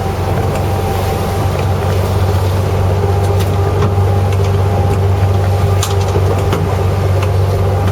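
Fishing boat's engine running steadily, a loud low drone with a few faint clicks over it.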